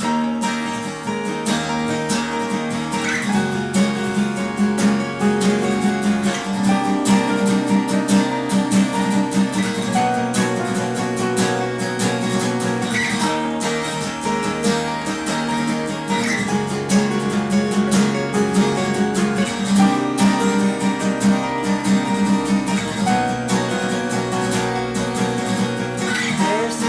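Instrumental song intro led by strummed acoustic guitar, starting abruptly with the full band sound and continuing steadily with no singing.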